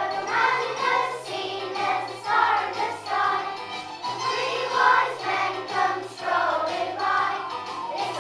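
A children's choir singing a song over a musical backing with steady low bass notes.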